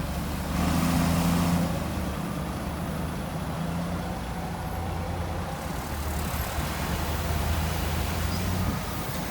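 Heavy diesel engine of earthmoving machinery running steadily, its note rising a little about half a second in and easing back after a second or so.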